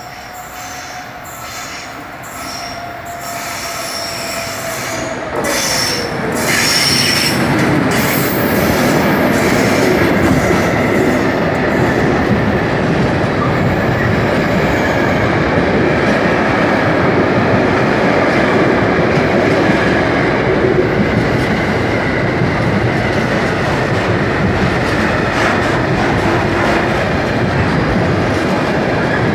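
Intermodal freight train approaching and then passing close by. The sound grows louder over the first few seconds, and the locomotive's whine drops in pitch as it goes past about six seconds in. After that comes a steady loud rumble and clatter of wagon wheels on the rails, with a faint high wheel squeal.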